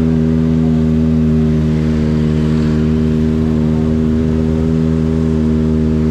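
Kawasaki ZX-25RR's 250 cc inline-four engine running at steady, fairly constant revs while the bike is ridden.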